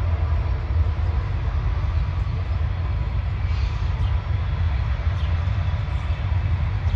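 CN diesel freight locomotive passing at a distance: a steady low rumble.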